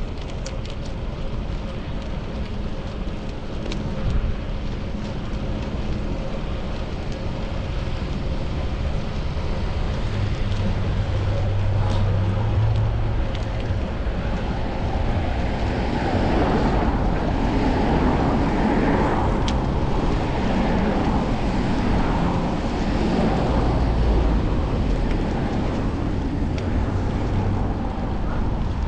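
Wind rushing over an action camera's microphone while riding a bicycle through city traffic, with steady road and traffic noise underneath. About halfway through, the traffic noise grows louder for several seconds and then eases off.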